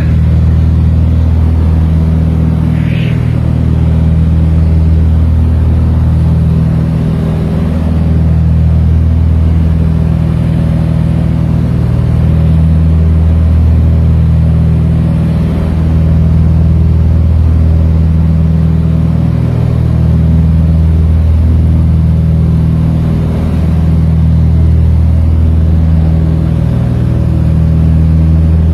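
Aircraft engine drone, steady and loud, with a slow rise and fall in loudness every few seconds.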